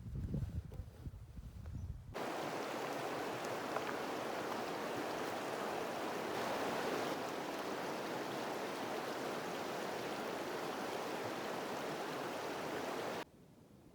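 Steady rush of a stream's running water, cutting in suddenly about two seconds in and cutting off suddenly near the end, after a brief low rumble.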